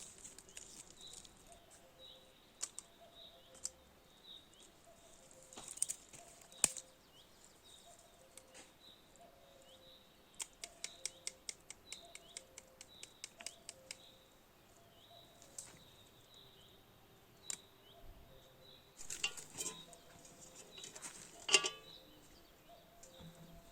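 Birds calling outdoors: a small bird gives short chirps over and over, under a low, repeated two-note call. About halfway through comes a fast run of clicks, about ten a second for a few seconds, and a few sharp knocks and clatters stand out, the loudest near the end.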